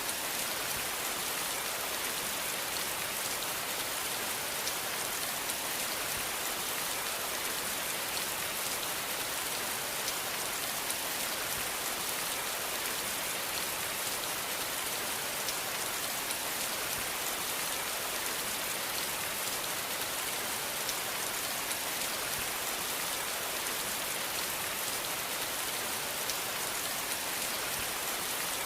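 Steady rain falling, a dense even hiss of drops with fine pattering ticks from drops striking a surface.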